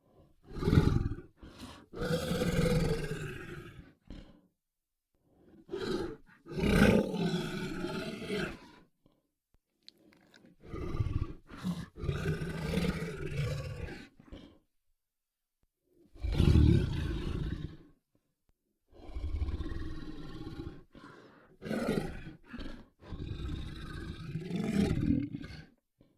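Large monster sound effect: a series of throaty creature roars in about four groups, each a short sharp call followed by a longer one of about two seconds, with silent gaps between.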